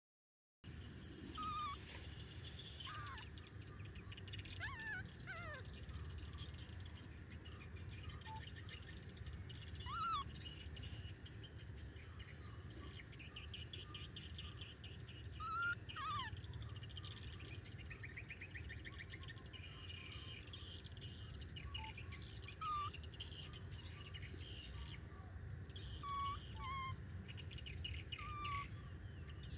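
Birds calling: short whistled notes that glide up or down come every few seconds, over a faint, steady trilling of insects and a low background rumble.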